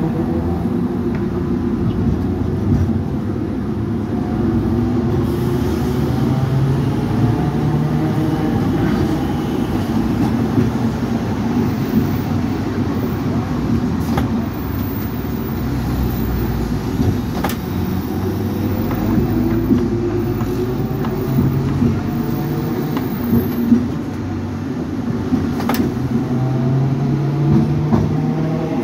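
Hong Kong double-decker electric tram running along its track: a steady rumble with a motor whine that glides up and down in pitch as the tram speeds up and slows. A few sharp clicks cut through it.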